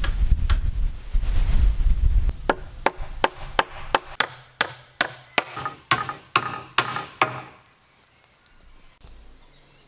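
A hand tool striking wood in a quick, even run of about a dozen blows, roughly two and a half a second, over a low rumble at first. The blows stop abruptly near the end.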